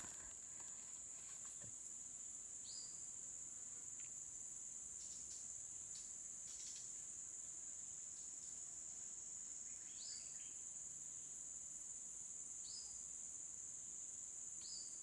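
Steady high-pitched drone of insects, with a few short high chirps scattered through it.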